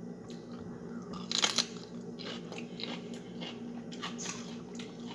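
Close-up eating sounds: a person biting and chewing crunchy food, with irregular crackly crunches, the loudest about one and a half seconds in, over a faint steady hum.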